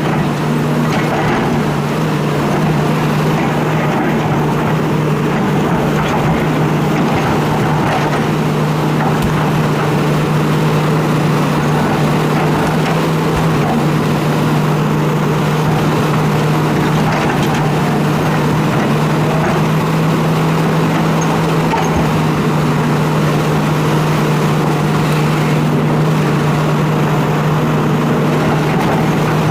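Hitachi excavator's diesel engine running steadily, with a constant low hum.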